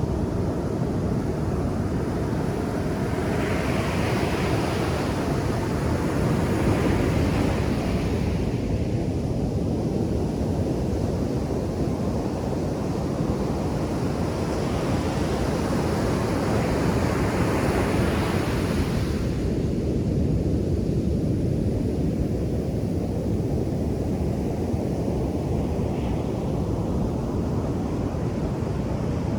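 Ocean surf breaking on a beach: a steady low rumble of waves, with the hiss of broken water rising and washing up twice, about three seconds in and again midway.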